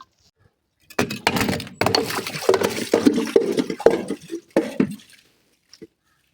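Something brittle being crushed: a dense run of crunching and cracking for about four seconds, ending in one small crack near the end.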